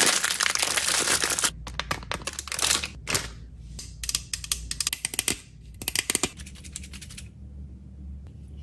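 Plastic packaging crinkling and rustling, then a run of quick clicks and taps as items are handled, which stops about seven seconds in.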